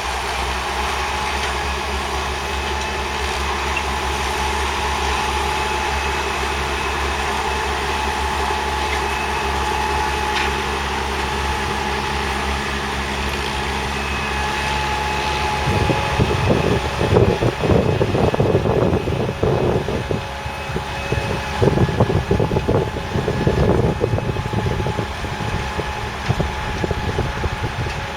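Massey Ferguson 1200's 5.8-litre six-cylinder diesel engine running at a steady speed. From about halfway through, gusts of wind buffet the microphone over it.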